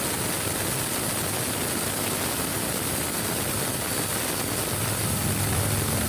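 A power tool running steadily, a continuous noisy hiss with a thin high whine over it; a low hum grows louder about five seconds in.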